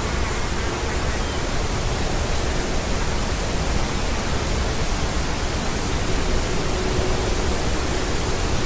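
Steady, even hiss with no distinct calls, taps or knocks.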